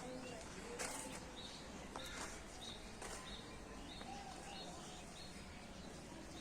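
Birds chirping: a repeated short, high chirp about twice a second, with a few lower sliding notes and several sharp clicks.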